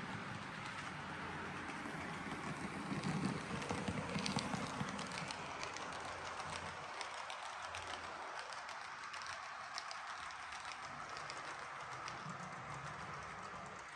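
H0m-gauge model train running along the track: a steady motor hum with light wheel clicking, loudest a few seconds in.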